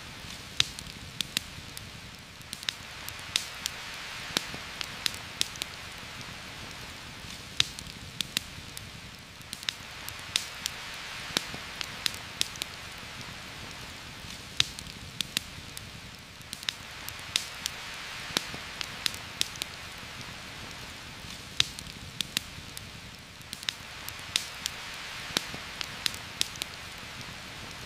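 Heavy rain falling through forest foliage as a steady hiss that swells and eases every several seconds, with a campfire's irregular sharp crackles and pops on top.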